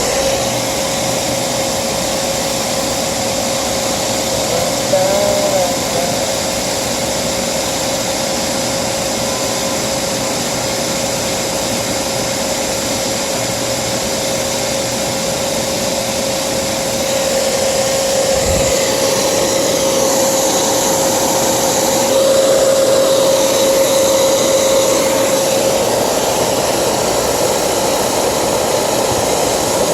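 Refrigerant recovery machine running steadily, drawing refrigerant out of the condenser into a recovery cylinder, with a constant whine over its noise and a single knock about two thirds of the way through.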